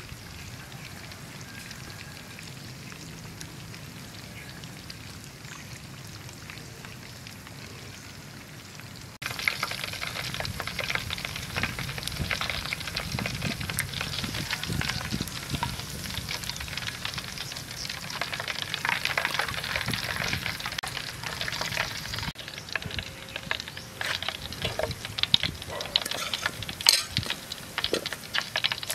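Pork ribs frying in hot oil in a wok, with a metal ladle stirring in the oil. The sizzle is steady and fainter at first, then much louder and full of crackles from about nine seconds in.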